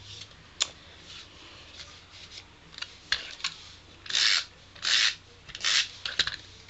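Paper rubbed against paper in three firm strokes about four, five and six seconds in, as a glued cardstock layer is pressed down onto a card, after a few light taps and clicks of paper handling.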